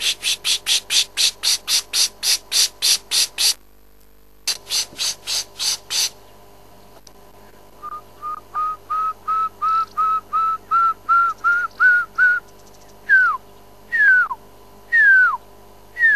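Birds calling: a fast run of harsh repeated notes, about four a second, that breaks off briefly and resumes. Then comes a quickening series of short whistles that rise a little in pitch, and finally four slurred whistles about a second apart, each falling in pitch.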